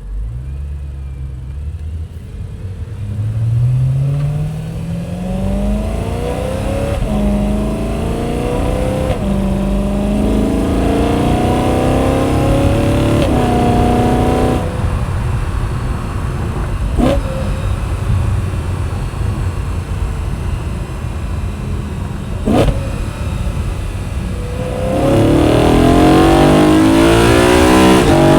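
BMW E92 M3's 4.0-litre V8, fitted with an M Performance muffler, under way: the engine note climbs and drops back several times as it pulls up through the gears, falls away suddenly about halfway through, then runs lower and steadier with two short sharp sounds. Near the end it accelerates again, louder, with the pitch rising.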